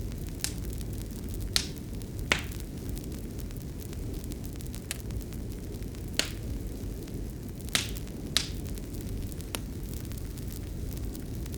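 Wood fire crackling: irregular sharp pops, about eight of them, over a steady low rumble of burning.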